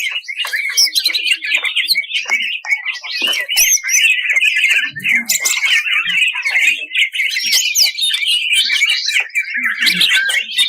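A cucak ijo (green leafbird) sings a fast, unbroken stream of chattering notes and quick whistled sweeps. This is the harsh, rapid song that bird keepers call 'tembakan kasar'.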